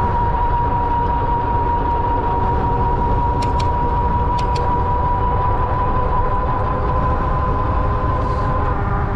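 Electric e-bike hub motor whining at a steady pitch while riding, over the low rumble of wind and tyres. A few short clicks come about a third and halfway through.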